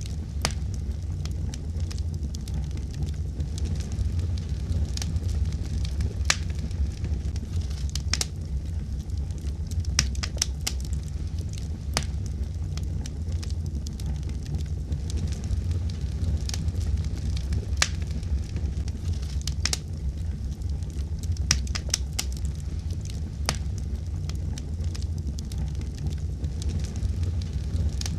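Fireplace fire crackling, with frequent sharp, irregular pops over a steady low rumble of the flames.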